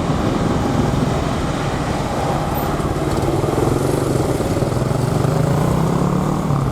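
An engine running steadily, swelling and rising a little in pitch in the middle, then easing off near the end.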